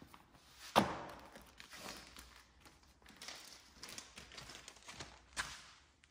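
A sharp knock about a second in, followed by rustling and light clatter of handling, and a second, smaller knock near the end.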